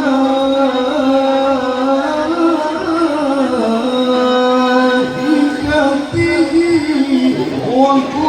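A male qari reciting the Qur'an in the melodic tajwid style, drawing out long ornamented notes that step and bend slowly in pitch.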